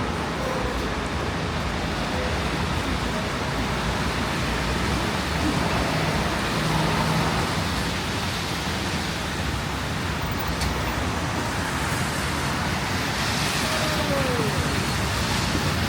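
Steady city street noise of road traffic, an even roar with no pauses.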